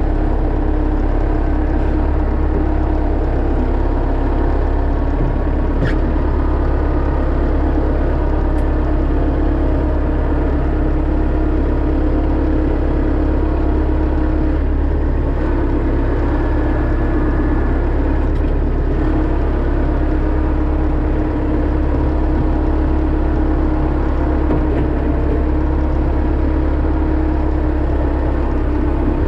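Kubota B3000 compact tractor's three-cylinder diesel engine running steadily at a constant speed, with a low drone and a steady hum.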